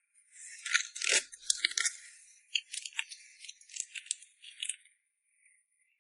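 A dry, high rattling and crinkling made of quick clicks in irregular clusters, stopping about five seconds in.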